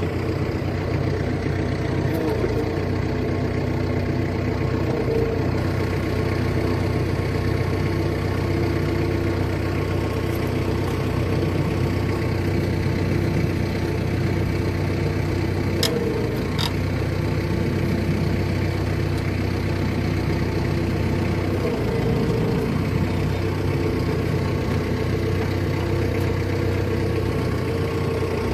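A4800 tractor's diesel engine idling steadily, just after being started. Two faint clicks about halfway through.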